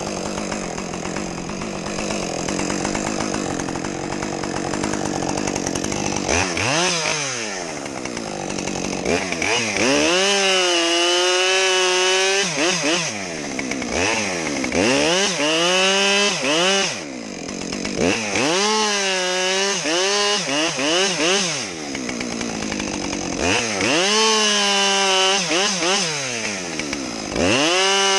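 Two-stroke chainsaw running, then revving hard in repeated bursts. Its pitch wavers and sags under load as it cuts through wood, and falls back briefly between bursts every four to five seconds.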